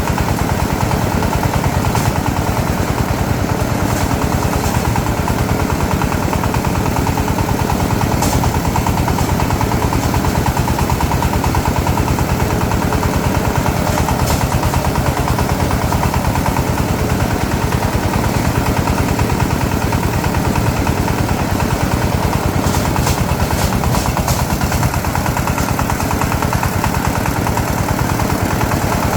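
Small engine running steadily at one speed, a rapid even train of firing pulses with no revving.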